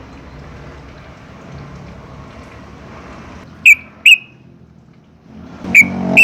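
Yellow-vented bulbul giving short, sharp, whistled notes in two pairs, one pair a little past halfway and the other near the end, over a faint low background rumble.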